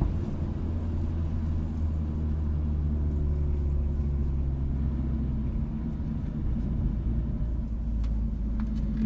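Hyundai Elantra N's turbocharged four-cylinder engine running steadily at low revs, a low rumble.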